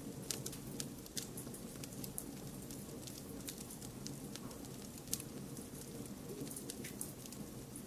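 Wood fire crackling: irregular sharp pops and snaps, several a second, over a steady hiss of blended white noise.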